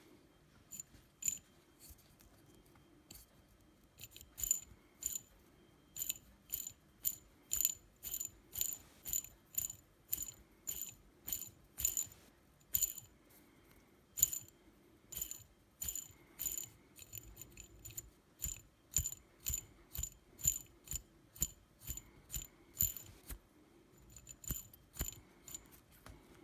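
T-Motor F40 Pro 2400kv brushless drone motor spinning in short, repeated bursts, about two a second, with a gritty, ratchet-like rattle. The rattle is the sign of worn, bad bearings.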